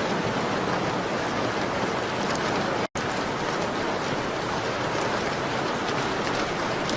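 Steady rain on a window, mixed with faint crackles from a fireplace. The sound cuts out completely for a split second about three seconds in.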